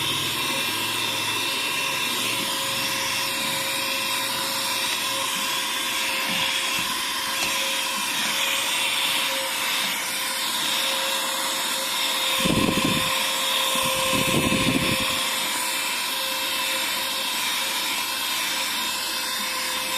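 HL-107 cordless handheld vacuum cleaner running steadily: a high motor whine over a rush of suction air, with two short louder bursts a little after halfway.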